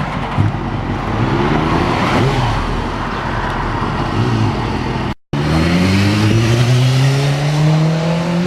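Motorcycle on the move with loud rushing wind and road noise and a faint engine note. Then, after a cut about five seconds in, the engine pulls hard, its pitch rising steadily as the bike accelerates.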